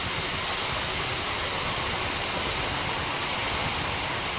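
Class 395 Javelin high-speed electric train running past, a steady even rush of wheel and running noise that holds one level.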